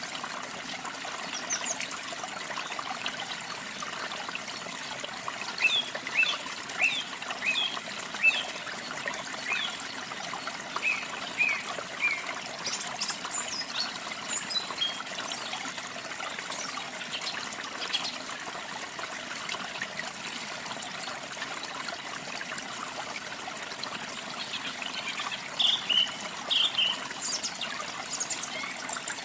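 Steady trickle and splash of running water, with short high bird chirps over it: a run of chirps about six seconds in, scattered calls after, and another quick run near the end.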